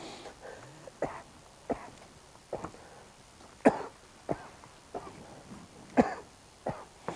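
Footsteps at a walking pace, a short step sound every half second to a second, with two louder steps around the middle and near the end.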